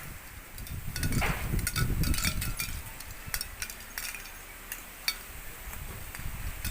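Storm wind gusting against the microphone, with a strong gust about a second in. Scattered sharp ticks and clinks come through it over the next few seconds.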